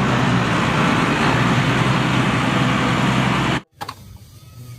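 A loud, steady rushing noise that cuts off abruptly about three and a half seconds in.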